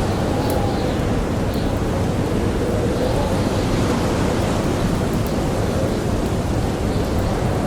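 Blizzard wind howling, a wavering whistle rising and falling over a steady roar of blowing snow, with a few faint pops from a crackling campfire.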